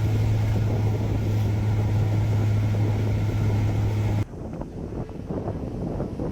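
A boat's engine running with a steady low drone under stormy wind and sea noise. About four seconds in, the drone stops abruptly, leaving gusty wind noise on the microphone.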